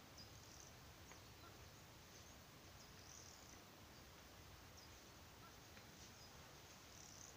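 Near silence in forest: a faint background hiss with short, high chirps of small birds now and then, the clearest about a second in, around three seconds in and near the end.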